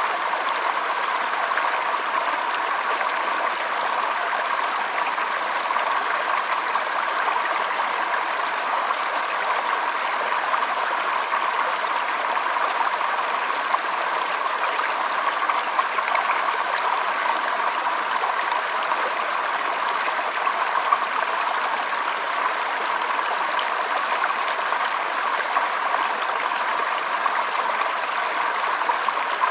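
A shallow stream trickling and burbling over stones, running steadily with small splashes throughout.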